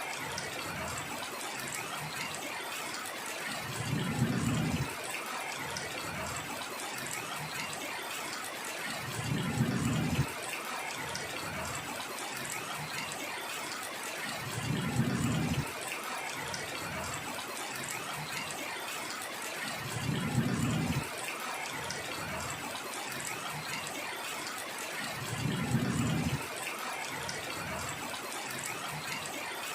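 Steady heavy rain. A low rumble swells for about a second and cuts off sharply, about every five and a half seconds.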